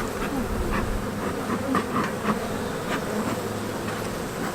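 A strong, healthy honeybee colony buzzing steadily from an opened hive.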